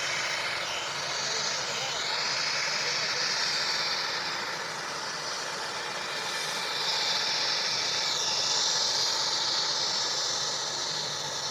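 Airbus A320 jet engines at take-off power, heard as a steady hissing roar with a faint gliding whine.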